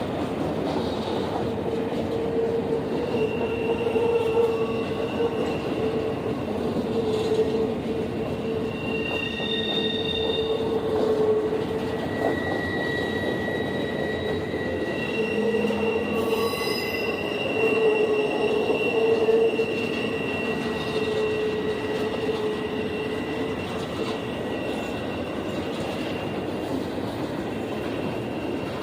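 A train rolling past with its wheels squealing: high, steady squeal tones that fade in and out over a continuous rumble of the cars.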